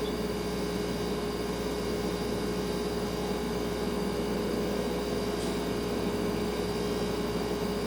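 Refrigerator running with a steady hum: one clear mid-pitched tone over a soft, even hiss.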